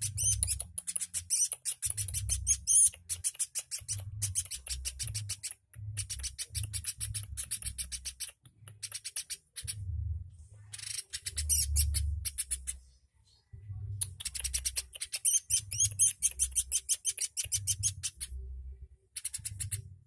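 Caged pelatuk bird singing a rapid, dry ticking trill in phrases of one to three seconds with short pauses between them. A low rumble runs under each phrase.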